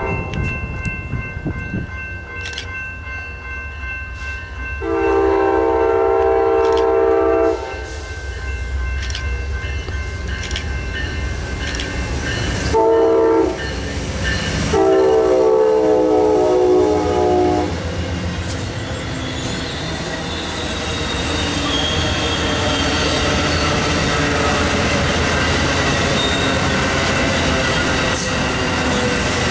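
Amtrak passenger train sounding its horn for a grade crossing as it approaches, a long blast, a short one and a final long one, then its two GE P42DC Genesis diesel locomotives go by and the double-deck Superliner cars roll past with a steady wheel-on-rail rumble and clatter that rises toward the end.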